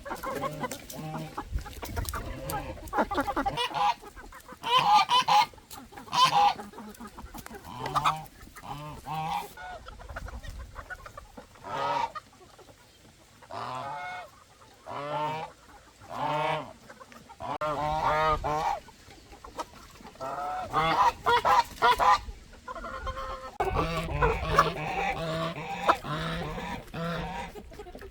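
A flock of domestic poultry calling over and over, many overlapping calls with a few loud ones standing out.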